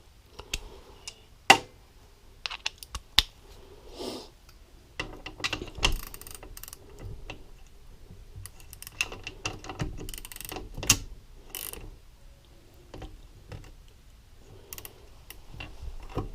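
Yamaha YFZ450R engine's gear selector being worked by hand: the shifter shaft and shift star clicking through the gears. Irregular sharp metallic clicks and clunks, a few louder than the rest.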